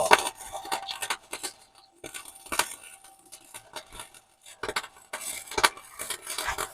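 Welding arc crackling as beads are run on a motor mount bracket and frame, in three short runs with brief stops between them.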